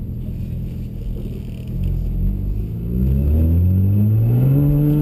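BMW 135i turbocharged straight-six through a 3.5-inch stainless exhaust with no mufflers, heard from inside the cabin. It runs low at first, then accelerates from about two seconds in, its pitch rising steadily and growing louder about a second later.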